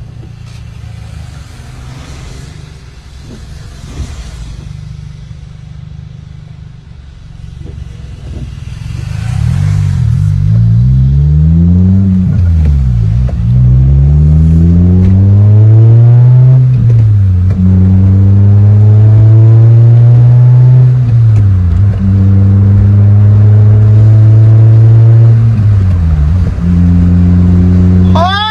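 Toyota Corolla XRS's four-cylinder engine through a loud aftermarket RS-type exhaust while driving: a low steady drone at first, then about ten seconds in it gets much louder as the revs climb, falling sharply at a couple of gear changes before holding fairly steady revs with short dips.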